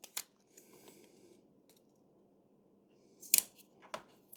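Scissors snipping masking tape: a light snip near the start, then a sharper snip or two near the end.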